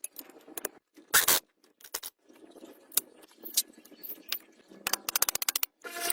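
Sharp metallic clicks, knocks and scrapes of hand work on metal parts, broken by sudden dropouts, with a quick run of about a dozen clicks near the end.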